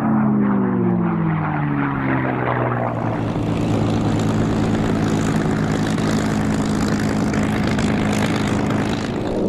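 Unlimited-class racing propeller plane's piston engine passing at speed: its pitch falls over the first few seconds as it goes by, then holds as a steady drone.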